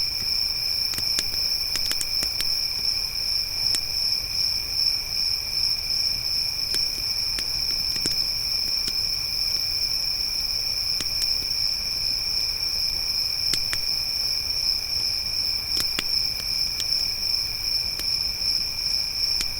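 A continuous high-pitched chorus of crickets chirping, with scattered sharp crackles and pops from a wood campfire.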